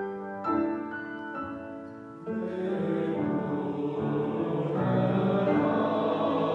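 Piano playing a few sustained chords, then a chamber choir enters about two seconds in and sings with piano accompaniment.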